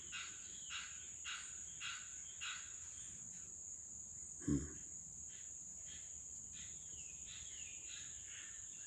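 Steady high-pitched insect drone, with a bird giving a run of harsh calls about twice a second over the first three seconds, then more scattered calls, some falling in pitch.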